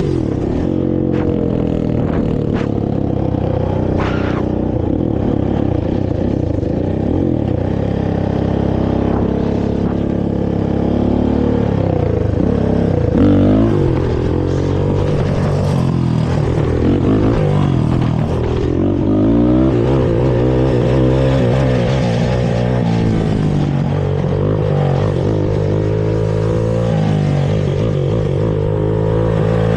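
Honda TRX450R quad's single-cylinder four-stroke engine on its stock exhaust, ridden with the throttle repeatedly opened and closed so the engine note keeps rising and falling. A few short clicks in the first few seconds.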